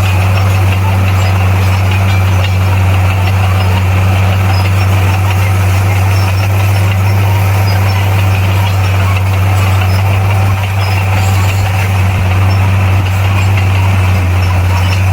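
Heavy diesel engine of a bulldozer running steadily with a deep, unchanging low hum.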